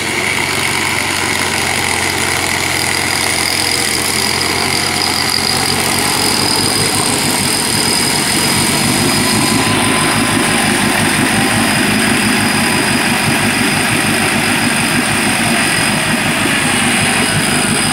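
Off-road 4x4's engine running steadily as the vehicle climbs out of a muddy creek on a winch cable, with a rougher, pulsing low sound joining about nine seconds in.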